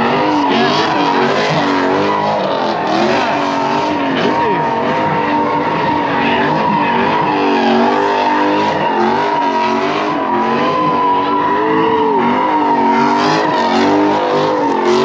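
A car doing a burnout: its tyres squeal in one long unbroken screech while the engine revs rise and fall.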